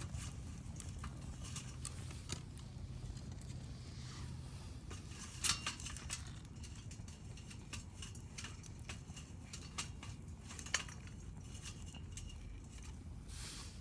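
Wood fire crackling with scattered pops, two of them louder, one near the middle and one about three-quarters through, over a steady low rumble.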